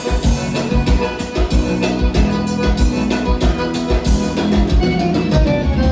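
A live gaúcho dance band playing an instrumental passage with a steady drum beat.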